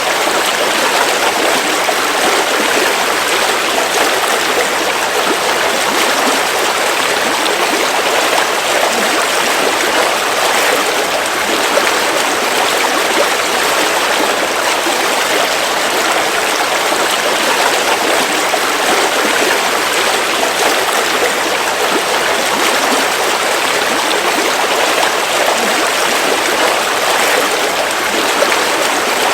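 River water flowing steadily over rocks, an even rushing with a lively splashing texture.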